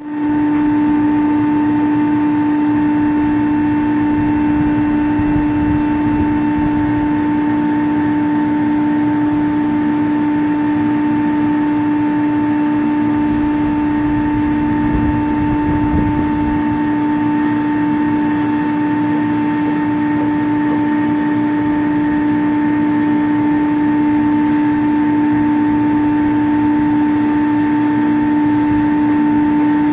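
Steady loud hum of running chiller plant machinery, a constant droning tone with a fainter higher one above it, holding level throughout.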